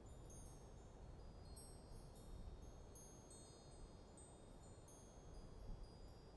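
Wind chimes ringing faintly in a light breeze, with high clear notes struck at irregular moments and overlapping as they ring on, over a low steady rumble of wind.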